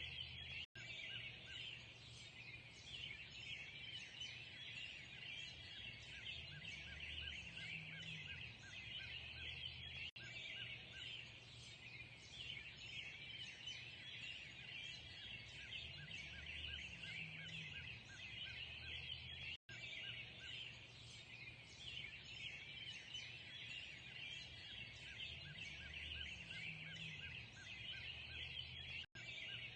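A dense chorus of many birds chattering and chirping together, unbroken, with a brief drop-out about every nine and a half seconds.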